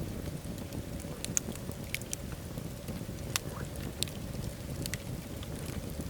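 Wood fire burning in a fireplace: a steady low rumble of the flames with irregular sharp crackles and pops, a few louder pops about a second and a half, three and a half and four seconds in.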